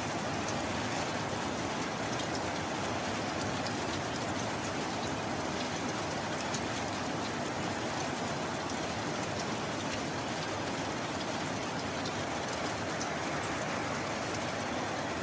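Steady heavy rain falling, with faint scattered ticks of individual drops; no thunder.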